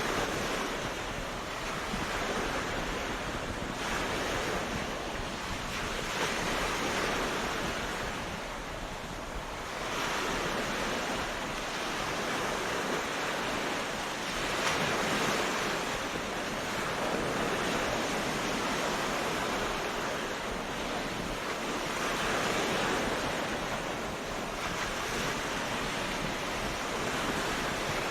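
Ocean waves breaking and washing on a beach, a continuous surf noise that swells and eases every few seconds.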